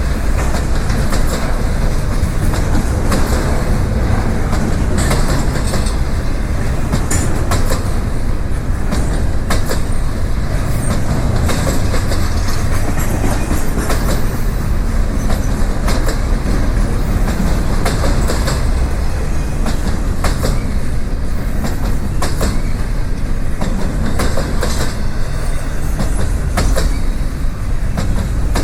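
Freight train rolling past, a loud, steady rumble of steel wheels on rail with irregular clicks as the wheels cross the rail joints.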